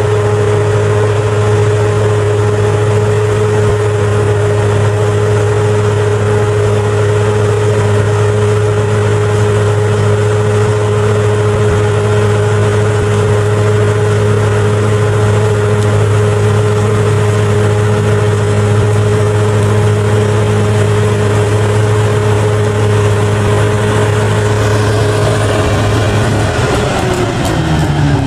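Bulldozer's diesel engine running steadily at high revs, then dropping in pitch near the end as it slows.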